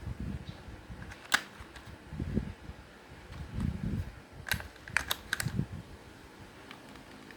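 Hands handling small plastic parts: low knocks and rubbing, a sharp click about a second in, and a quick run of clicks around five seconds in.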